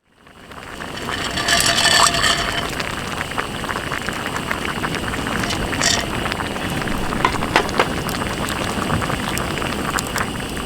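Campfire crackling with many sharp pops over a steady rush of sea wind. The sound fades in at the start.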